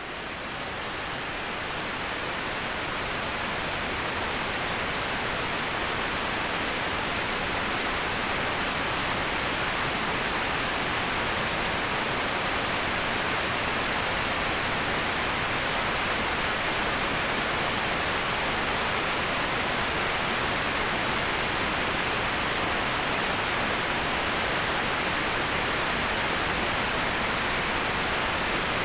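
Waterfall rushing as an even, steady noise, fading up over the first couple of seconds and then holding level.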